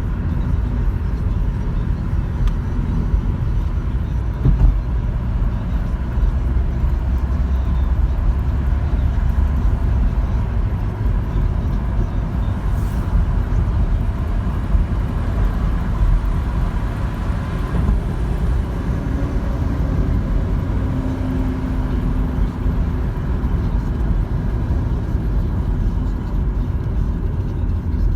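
Steady low rumble of a car driving, road and engine noise with no breaks.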